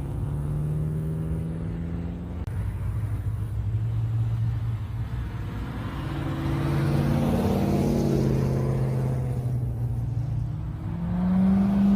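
Classic cars' engines running as they pull out and drive by one after another. A louder car passes in the middle, and near the end an engine revs up and drops back.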